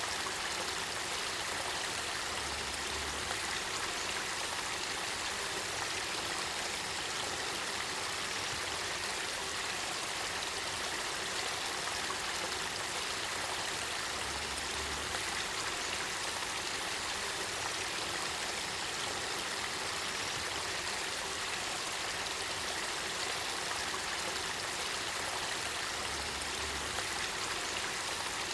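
Spring-fed river water flowing and burbling in a steady, even rush.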